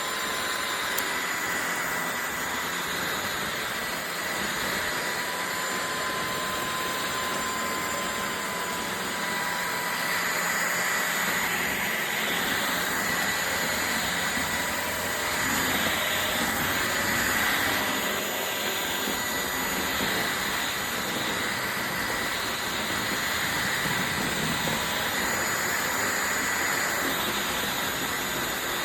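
Shark Detect Clean & Empty cordless stick vacuum running steadily: rushing air with a thin, steady motor whine, its level swelling slightly now and then.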